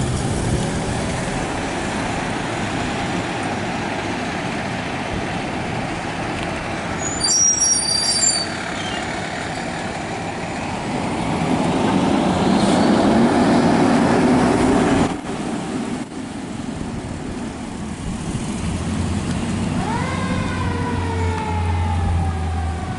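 A fire engine responding: its diesel engine and road noise build to a peak as it goes by, with a brief high-pitched warble about a third of the way in. Near the end a siren wail jumps up and slowly drops in pitch.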